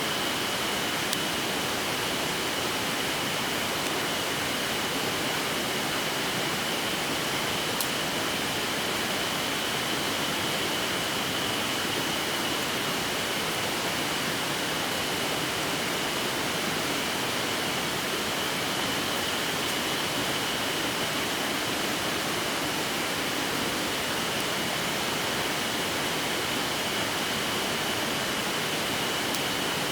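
Mountain stream rushing steadily over rocks, a constant even noise, with a thin steady high tone over it and a few faint clicks.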